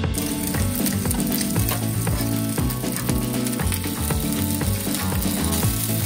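Minced-meat-stuffed green peppers frying meat-side down in oil in a frying pan, a steady sizzle over medium heat, with background music.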